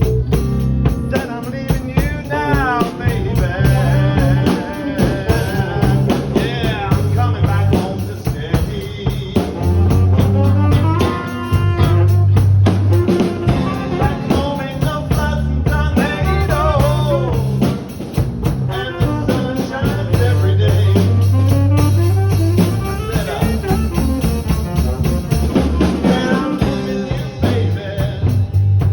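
A live band playing a slow blues: a lead guitar soloing with bent notes over bass guitar and drum kit.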